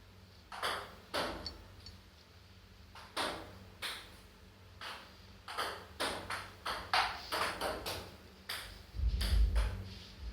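A common myna's beak tapping and clinking against its container as it drinks faluda: a series of irregular sharp taps, sparse at first and coming faster in the second half. Near the end a louder low rumble comes in.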